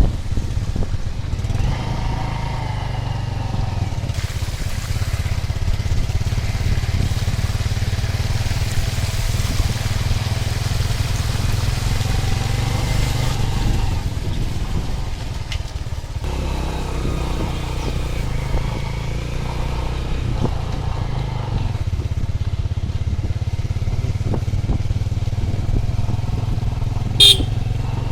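A vehicle engine running steadily with a low hum, with a noisy hiss over it. Near the end there is one brief high-pitched chirp.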